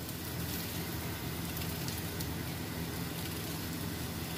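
Potato chunks and sliced onion frying in oil in a pan, a steady crackling sizzle over a low steady hum.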